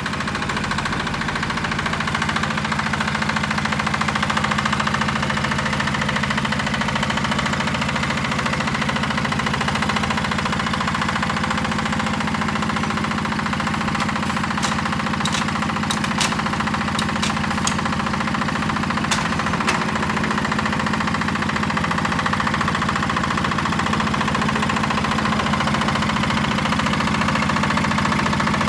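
Yanmar YA80 hand tractor's single-cylinder NFD8 diesel engine running steadily with its fast, even firing pulse. Several sharp clicks come in a little past halfway.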